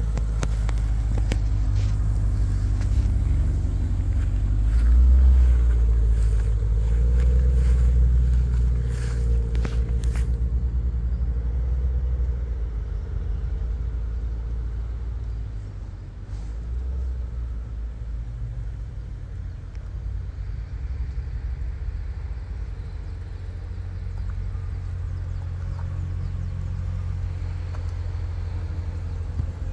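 Supercharged 6.2-litre LSA V8 of a Chevrolet Camaro ZL1 running through its unmodified factory exhaust: a deep rumble that swells twice in the first ten seconds, then settles to a steady idle.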